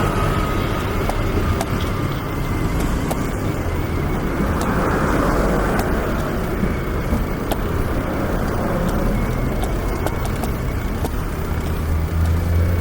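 Steady road traffic noise on a city street, with a heavier low rumble swelling near the end as a vehicle passes close.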